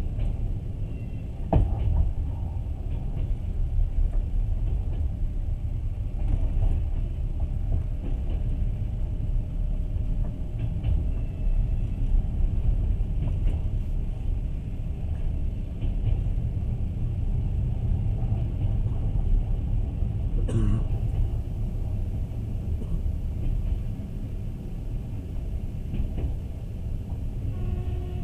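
Passenger train running along the track, heard from inside the carriage: a steady low rumble of wheels and car body, with a couple of sharp knocks, one near the start and one about two-thirds of the way through.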